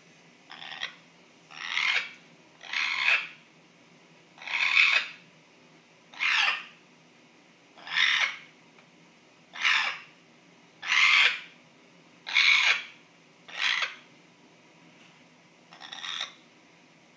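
African grey parrot making a harsh, hissy call over and over, about eleven times, roughly one every one and a half seconds.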